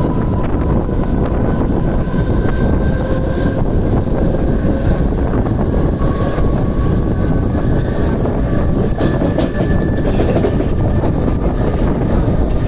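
Mumbai suburban electric local train running along the track, heard from the open side of the coach: a steady loud rumble with scattered wheel clicks over the rails and a faint high whine that wavers in pitch.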